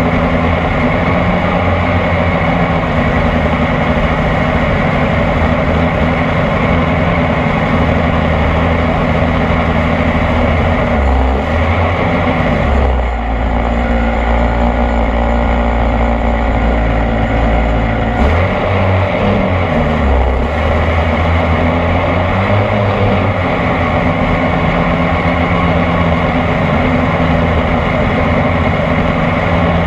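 26cc two-stroke petrol engine of an RC boat running steadily, easing off to a lower speed about ten seconds in and picking back up to its earlier pitch a few seconds before the end of that lull, around twenty seconds in.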